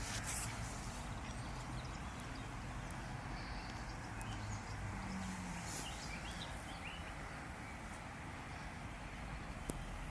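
Outdoor background noise: a steady hiss with a low rumble underneath, and one sharp click near the end.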